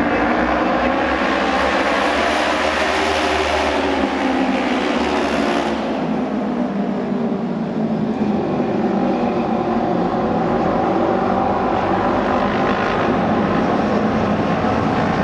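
A pack of Japanese auto race oval-track motorcycles running at race speed with a steady engine drone. The sound is brightest and closest for the first six seconds, drops back sharply, then carries on a little duller.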